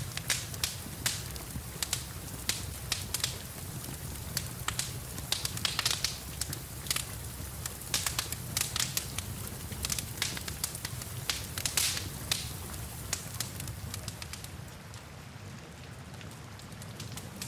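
Wood fire crackling, with frequent sharp pops over a steady rain hiss and low rumble. The crackles thin out and the sound drops a little near the end.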